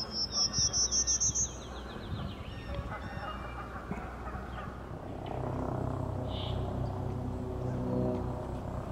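Prairie warbler singing: a quick run of buzzy notes climbing steadily in pitch, ending about a second and a half in. A low steady hum sets in about five seconds in.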